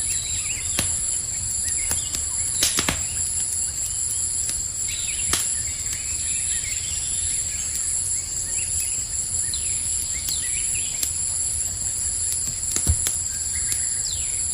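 Campfire crackling with scattered sharp pops, the loudest near the end, over a low steady rumble, with a constant high chirring of night insects behind it.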